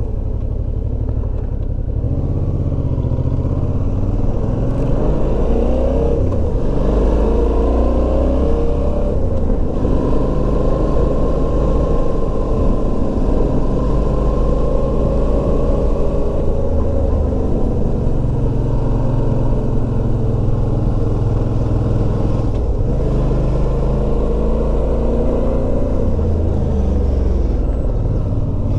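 Motorcycle engine running under way, its note rising and falling with throttle and speed.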